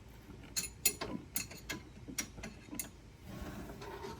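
Sharp metallic clicks of a hand tool working a stubborn bolt under the hood, about eight clicks a third to half a second apart, then quieter fiddling near the end.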